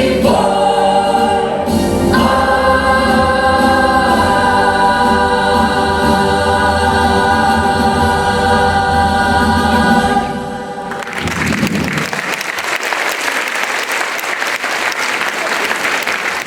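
A vocal ensemble over an accompaniment holds a long final chord that stops about eleven seconds in, followed by audience applause.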